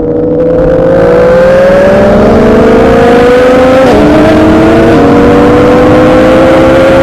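Motorcycle engine running loud under hard acceleration, its pitch climbing steadily. About four seconds in the note drops suddenly at an upshift, then climbs again.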